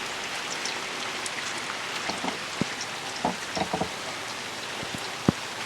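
Freezing rain falling steadily at the start of an ice storm: a dense hiss of tiny ticks, with a sharper click about five seconds in.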